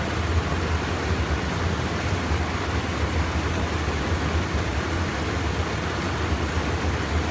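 Steady rush of stream water pouring over a small check dam, with a low rumble underneath.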